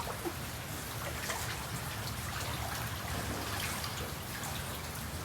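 Steady rain falling, with water trickling and dripping.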